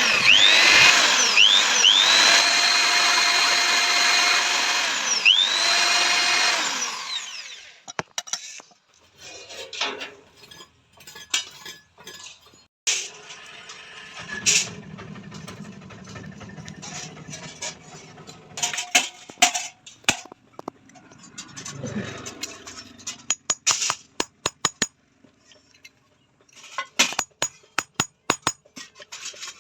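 An electric power tool's motor runs loudly for about seven seconds, its whine rising in pitch several times as it speeds up, then stops. After that come scattered light metallic clicks, taps and clinks of small metal pieces being handled.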